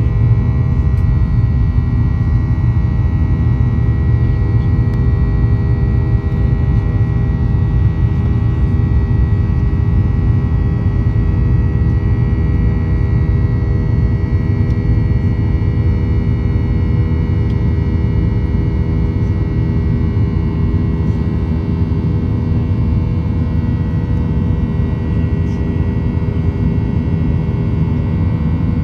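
Inside the cabin of a Boeing 737-800, its CFM56 jet engine running steadily under a deep rumble, with a set of steady droning tones from the engine.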